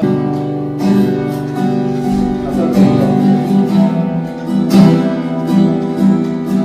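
Acoustic guitar strumming chords, playing the introduction of a song.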